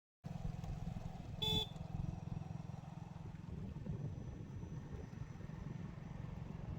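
Motor vehicle engine running steadily with a low rumble, with one short horn beep about a second and a half in.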